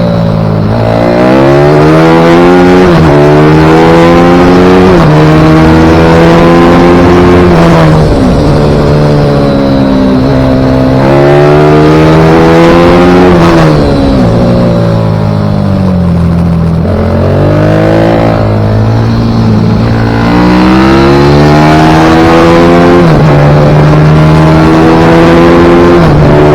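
Pit bike engine racing around a track, its pitch climbing hard and then dropping sharply at each gear change, with longer slides down where it slows for corners, over and over. Very loud throughout.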